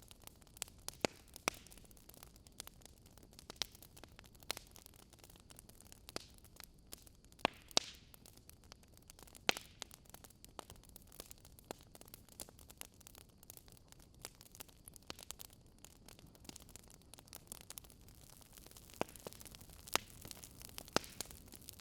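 Burning firewood crackling: irregular sharp pops and snaps over a steady low hiss.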